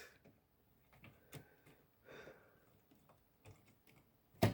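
Faint, scattered clicks and taps of hands handling the original Xbox's plastic parts and cables during reassembly, with one sharper click near the end.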